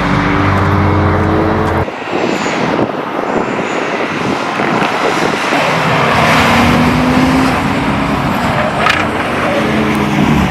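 Audi car engines running: first a steady idle, then about two seconds in a busier mix of engine noise, with one engine's pitch rising around the middle.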